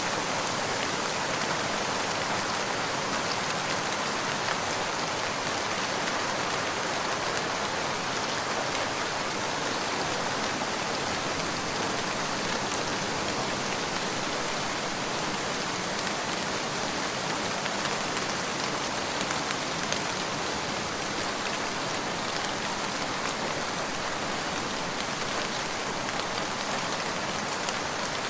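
Steady rain falling, with a continuous patter of drops on a surface.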